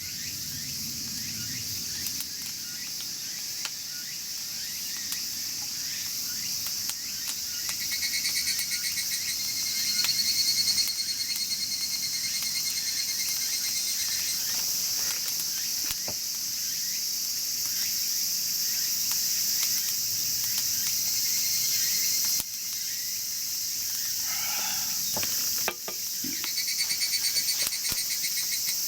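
A steady high-pitched chorus of insects, with a pulsing insect trill that starts about eight seconds in, fades out, and returns near the end. Faint occasional crackles come from a wood fire burning in a chimney fire pit.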